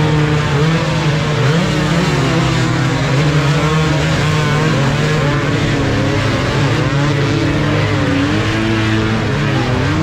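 Several motocross bikes' engines running together, their pitches rising and falling as the riders rev and shift, over one steadier engine note.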